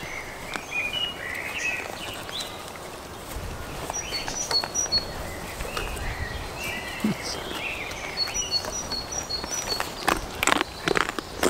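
Wild birds singing outdoors: scattered chirps and two runs of short, evenly spaced high notes, over a steady outdoor background. Near the end come a few sharp knocks close by.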